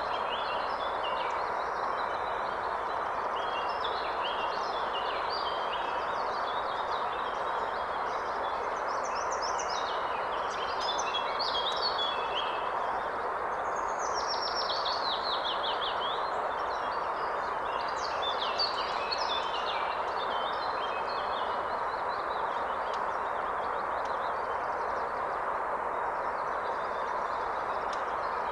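Steady rushing of a forest river with several songbirds singing over it in short phrases. About halfway through, one bird gives a quick run of falling notes.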